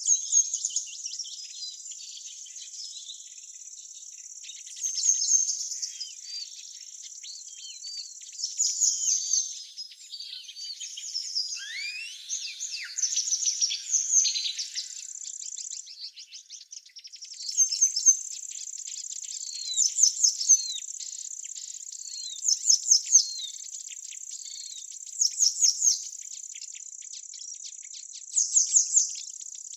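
Birds chirping and singing over a steady high-pitched insect trill. In the second half, short bursts of quick chirps come about every two to three seconds.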